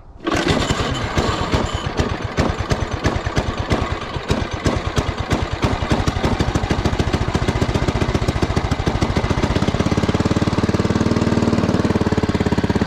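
Small engine of an old Scat Kat mini snow vehicle on a cold start: it catches abruptly right at the start, fires unevenly for the first few seconds, then settles into a steady, even run.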